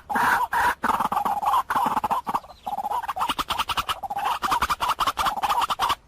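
White-breasted waterhen calling: a string of harsh, repeated notes. After a short pause partway through, they speed up into a rapid chatter.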